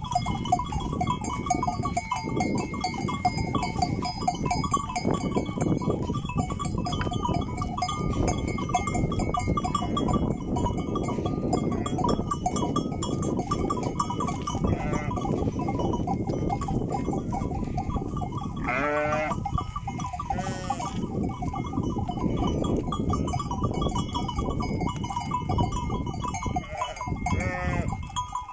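Many livestock neck bells clanking and ringing together without pause as a flock moves. A few animals bleat, most clearly about two-thirds of the way through and again near the end.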